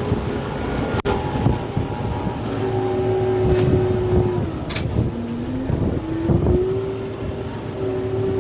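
Kubota M6-141 tractor's diesel engine working under load, its pitch sagging about five seconds in and climbing back as it lugs. Scattered sharp cracks sound over it.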